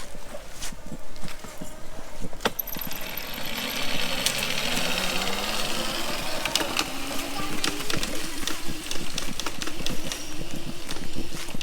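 Razor MX350 electric dirt bike's 350-watt motor whining as it picks up speed, its pitch rising steadily from about three seconds in, with a sharp click about two and a half seconds in.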